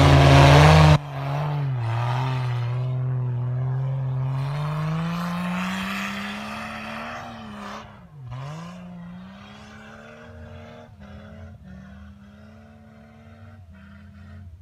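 Off-road 4x4 SUV engine revving hard under load in snow and mud, its pitch rising and falling with the wheelspin, then holding steady revs and fading as the vehicle pulls away. A louder burst of engine noise in the first second cuts off abruptly.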